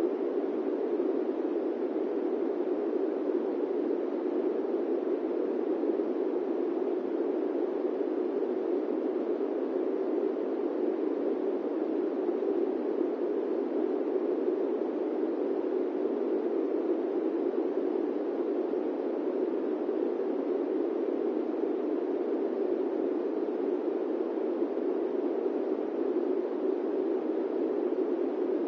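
Steady airplane-cabin white noise: an even, low rushing drone that does not change.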